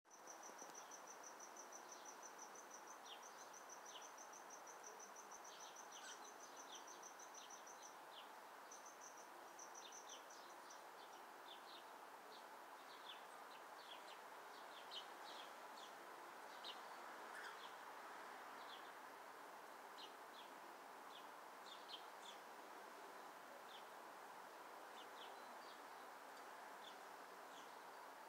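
Faint chirps of small birds, short and scattered, over a steady background hiss. For about the first ten seconds a high, rapid, evenly pulsed trill runs alongside them.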